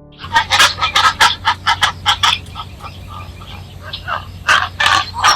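Rapid series of short, sharp animal calls, about four a second, then a pause and three more calls near the end.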